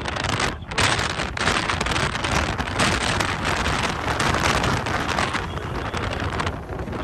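Wind rushing over the microphone with vehicle noise underneath, a steady hiss that drops away briefly about half a second in and eases near the end.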